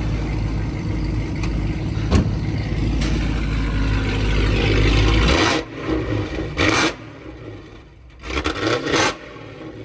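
A motor runs with a steady low hum and cuts off suddenly about five seconds in, followed by two short bursts of scraping.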